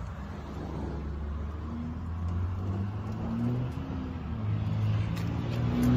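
A 3.6-litre V6 engine of a 2015 Chevrolet Colorado running, heard from inside the cab, with a low, steady hum that grows louder toward the end.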